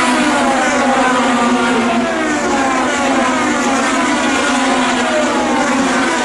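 IndyCar race cars' 2.2-litre twin-turbo V6 engines running at speed on track. Several engine notes overlap, each sliding down in pitch again and again as the cars pass by.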